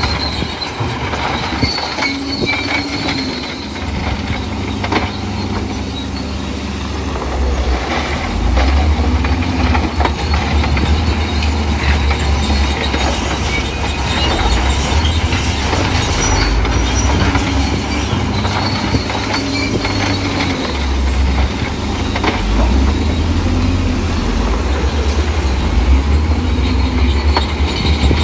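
Crawler bulldozer working in mud: its diesel engine runs under load with a heavy low rumble, while the steel tracks squeak and clank. The rumble grows louder about eight seconds in.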